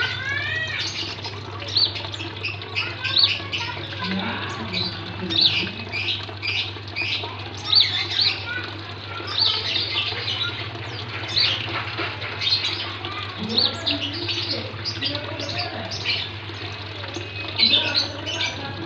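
Small cage birds calling in an aviary: a busy run of quick high chirps and short whistled notes, many of them sweeping in pitch, over a steady low hum.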